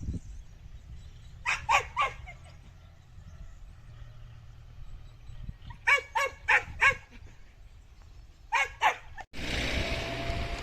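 A dog barking in three bursts: three barks, then four, then two. Near the end the sound cuts abruptly to a steady rushing noise, like wind on the microphone.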